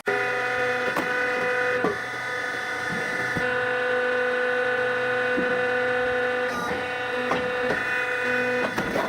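Small engine and hydraulic pump of a compact hydraulic wood splitter running steadily, a hum of several fixed tones, with a few short knocks and clacks from the machine working the wood.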